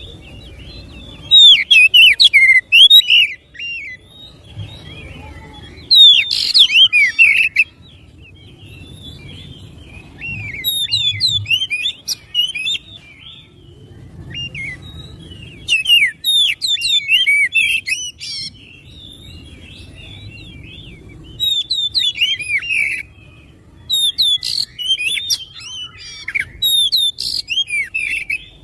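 Oriental magpie-robin (kacer) singing: a string of fast, varied whistled phrases, each a second or two long, with short pauses between them.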